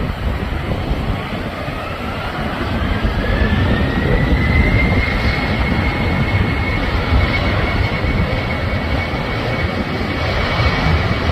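Jet airliner engines spooling up for takeoff: a whine that rises in pitch over about four seconds and then holds steady, over a deep continuous rumble.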